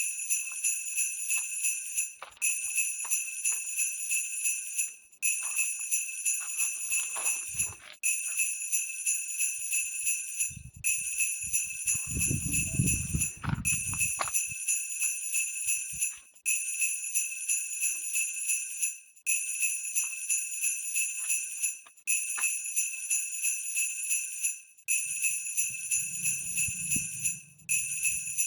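Bells jingling in a steady rhythm of about three shakes a second, in repeated runs of about three seconds with short breaks between. A low rumble comes in about halfway through and again near the end.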